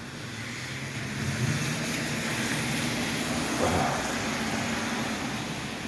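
A motor vehicle driving by on a wet road: a low engine hum with tyre hiss that builds over the first couple of seconds, holds, then eases slightly.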